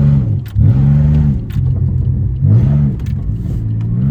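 Pontiac Grand Prix GT's 3.8 L V6 through a catless exhaust, revving up and dropping off repeatedly in short throttle bursts. There are a few sharp cracks as the revs fall.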